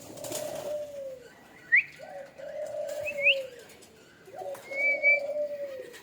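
Dove cooing: three drawn-out coos about two seconds apart, each falling in pitch. Short, sharp rising chirps from other birds come between them.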